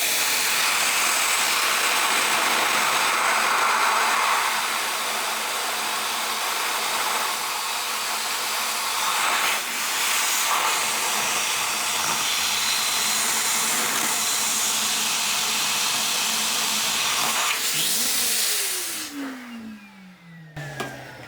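Vacuum cleaner running steadily while it draws on the ports of a Honda XR250L cylinder head whose combustion chamber is filled with water: a vacuum leak test of the freshly lapped valves. About 18 seconds in it is switched off and its motor spins down with a falling whine.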